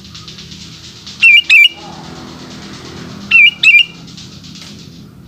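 Sooty-headed bulbul giving two loud calls about two seconds apart, each a pair of quick wavering whistled notes, over a steady high buzzing trill.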